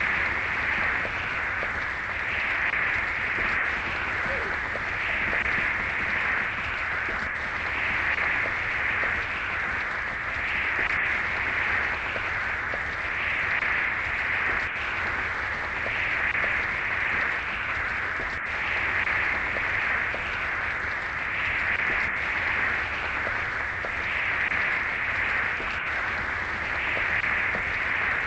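Steady rushing noise of moving water, swelling and easing gently every couple of seconds.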